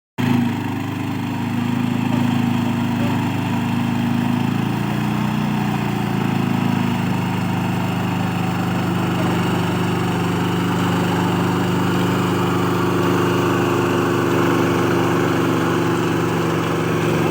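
Swaraj tractor's diesel engine running steadily, its pitch wavering slightly in the first few seconds before settling.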